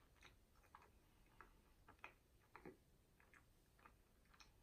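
Faint chewing of a bite of mini cherry snack pie with a fairly hard crust: soft, irregular mouth clicks, about three a second.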